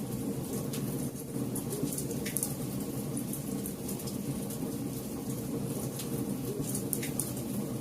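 Wood campfire burning: a steady low rush of flames with frequent sharp crackles and pops from the burning wood.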